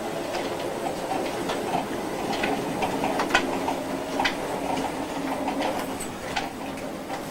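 Home-built bandsaw sawmill running as it saws along a log: a steady mechanical hum with irregular sharp clicks and ticks over it.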